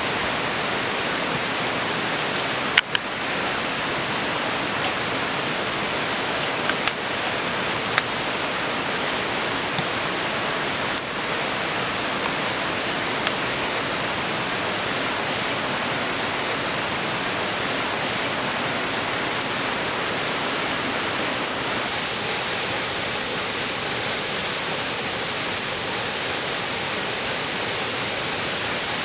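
Steady rushing of a waterfall, an even hiss with no pitch to it, broken by a few sharp clicks, the loudest about three seconds in.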